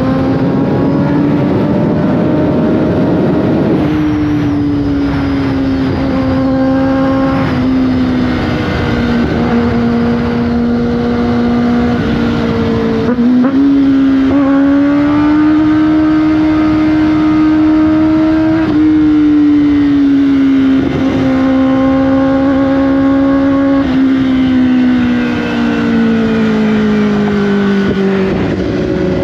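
Kawasaki Ninja ZX-10R's inline-four engine running under way. The engine note rises and falls with the throttle, with sudden pitch steps several times.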